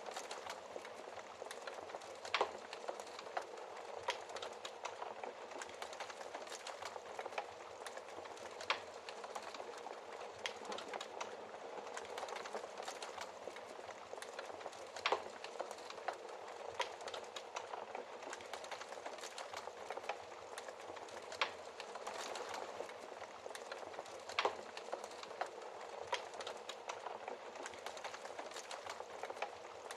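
Wood fire burning in a fireplace: a steady soft hiss of flames with frequent crackles and sharp pops from the burning logs, a few louder snaps scattered through.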